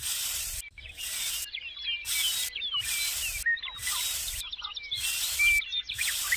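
Birds chirping and calling, over a high hiss that pulses on and off about once a second.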